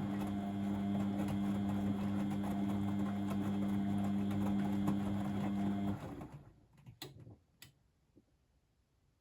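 Blomberg WAF 7442 SL washing machine running with a steady hum and light rattling, which cuts off about six seconds in, followed by two sharp clicks.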